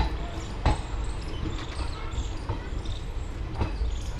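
Train coach rolling slowly along a station platform, heard from an open window: a steady low rumble with sharp clacks of the wheels over rail joints, the two loudest at the very start and under a second later, then fainter ones.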